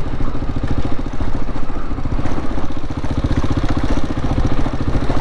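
KTM 690 Enduro's single-cylinder engine running steadily at low revs, its firing pulses even throughout.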